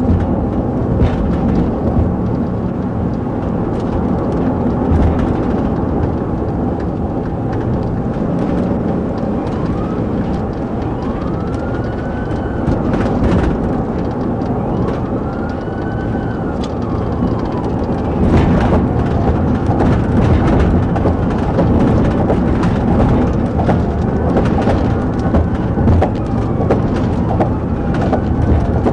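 Police siren wailing, its pitch rising and falling in slow sweeps of a few seconds each, over loud steady engine, road and wind rumble of a vehicle in pursuit.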